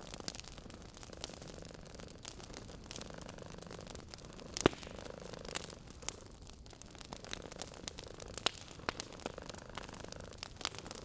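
Wood fire crackling in a fireplace, with irregular sharp pops and snaps, the loudest about halfway through. A cat purring softly in stretches underneath.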